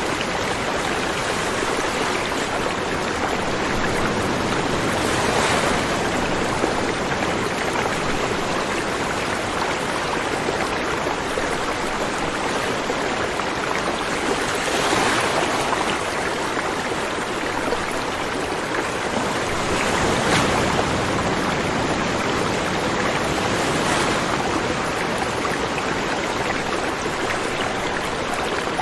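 A river flowing: a steady rush of running water with brief swells a few times.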